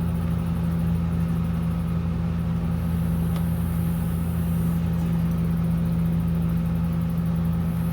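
A steady, low-pitched machine hum, even and unchanging throughout.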